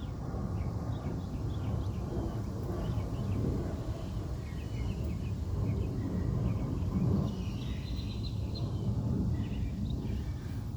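Outdoor ambience: a steady low rumble with small birds chirping repeatedly in the background, a busier run of chirps about two-thirds of the way through.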